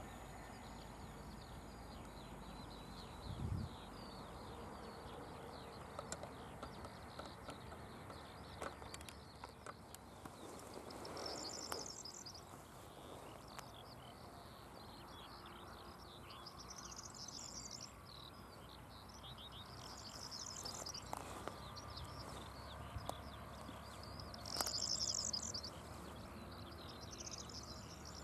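Songbirds singing in open countryside: short high trilling phrases repeating every few seconds among scattered chirps, over a faint steady background hiss. A brief low thump about three and a half seconds in.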